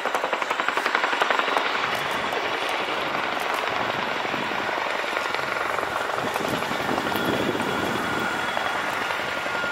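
Boeing Chinook tandem-rotor helicopter flying its display: the rotors beat in quick, regular pulses over a loud rumble of engine and air noise. A steady whine comes in about halfway through.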